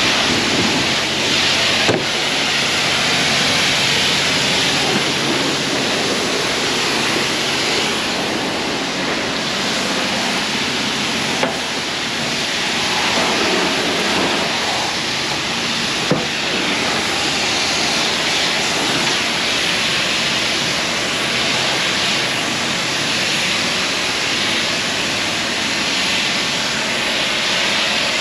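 High-pressure wash wand spraying water onto a truck and camper: a steady hiss of spray, broken by three brief sharp clicks.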